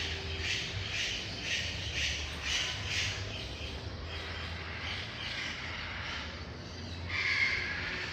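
A forest bird giving a series of harsh, raspy calls, about two a second for the first three seconds, then looser calls, with the loudest call about seven seconds in.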